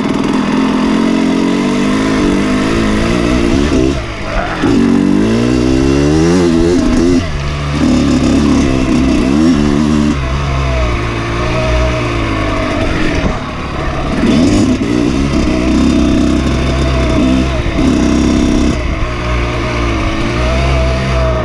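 Dirt bike engine running under load, its pitch climbing and dropping over and over as the throttle opens and closes, with brief drops in loudness a few times.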